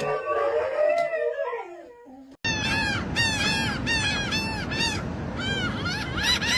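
An animal's rapid series of loud, harsh, arched calls, about three a second, starting abruptly a couple of seconds in after a wavering pitched sound fades out.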